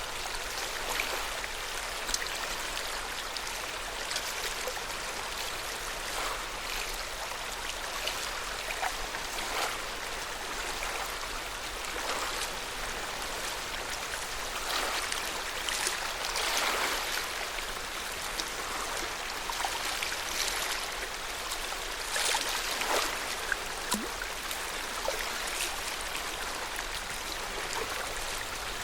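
Lake water lapping: a steady wash of small waves with irregular little splashes every second or so.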